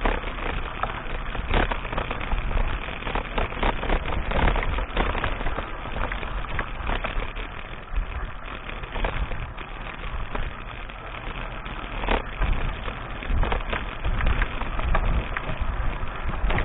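Mountain bike riding noise on an action camera's microphone: a steady low rumble of wind and tyres on a dirt track, with frequent small clicks and rattles.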